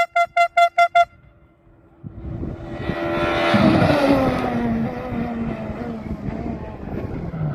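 Rally car engine chopping on and off about five times a second, then cutting off. After a brief lull a rally car comes up and passes at speed, its engine note falling in pitch as it goes by.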